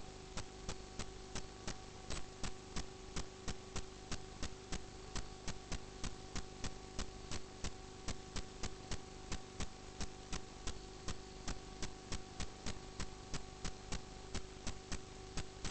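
Steady electrical hum with a sharp, regular ticking, about three ticks a second, running evenly throughout.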